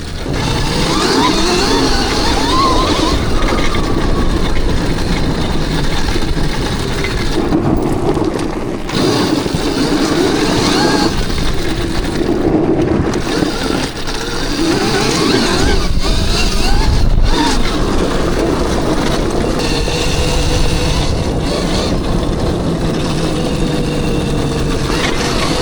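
Gas dirt bike engines revving up and down while riding, their pitch rising and falling again and again.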